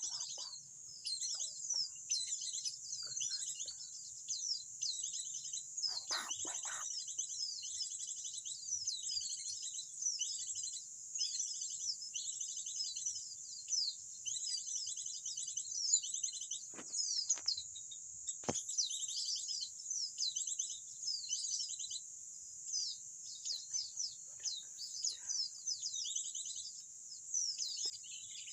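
Small birds chirping and trilling over and over, over a steady high-pitched buzz, with a few brief knocks.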